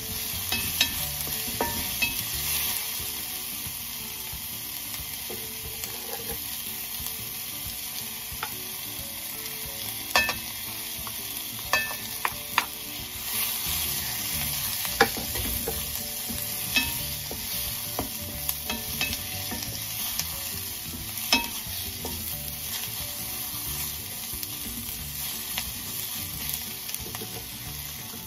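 Sliced onion and garlic sizzling as they fry in a stainless steel wok, stirred with a wooden spatula. Every so often the spatula knocks and scrapes against the pan, in short sharp clicks.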